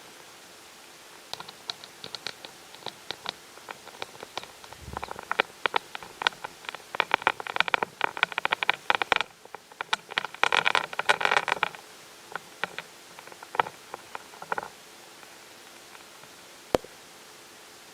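Irregular rustling and clicking, thickening into a rapid clatter from about six to twelve seconds in, then thinning to a few sharp ticks.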